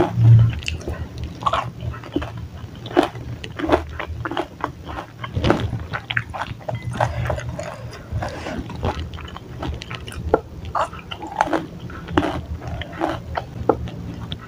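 Close-up chewing and biting of chewy tapioca-starch balls (bakso aci and cilok) in spicy broth: many short, irregular wet clicks from the mouth, with a wooden spoon now and then knocking against the ceramic bowl.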